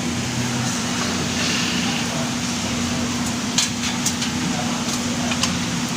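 A few sharp clicks and taps of hard parts being handled as a desktop computer case is taken apart, over a steady low hum.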